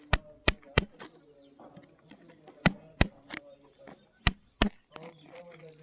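Sharp, hard strikes in quick groups of two or three, about eight in all, like a hammer striking rock to break it open.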